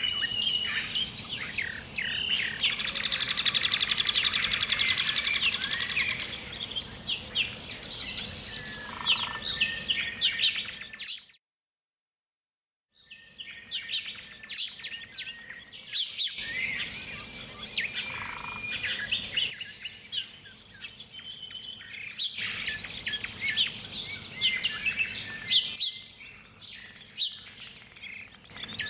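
Forest ambience of many birds chirping and singing, with a fast trill a few seconds in. The sound drops out completely for about two seconds near the middle, then the birdsong returns.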